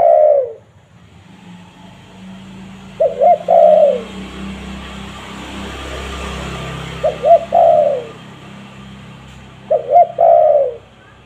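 Spotted dove (tekukur) cooing: three calls a few seconds apart, each two quick short notes followed by a longer, falling coo. A faint background hiss runs under the calls in the middle stretch.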